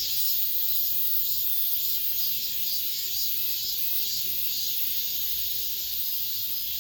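Cicadas singing in chorus: a steady, high-pitched buzzing drone with a slight pulsing throb.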